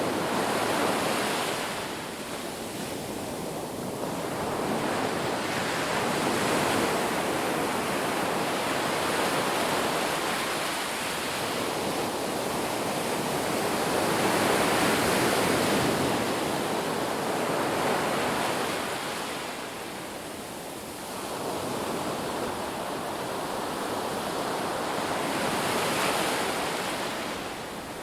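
Ocean waves breaking and washing on a beach, a steady rush of surf that swells and ebbs every few seconds.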